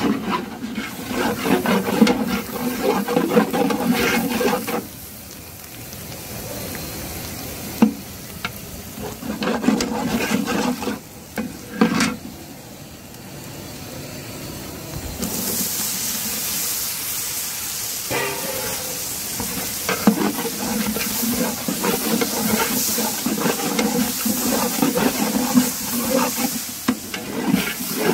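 A long ladle scraping and stirring sliced onions frying in oil in a large metal pot. About fifteen seconds in, a loud sizzle starts as chopped tomatoes go into the hot oil, and the stirring scrapes carry on over it.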